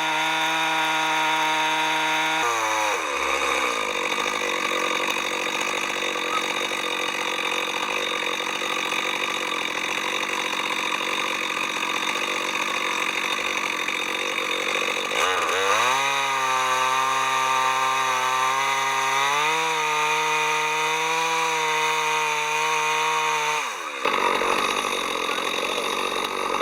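Chainsaw running at high revs. About two and a half seconds in, its pitch drops and it runs under load with a rough sawing noise through wood. Around fifteen seconds in, the pitch climbs back up and holds, then falls off near the end as the throttle is let go.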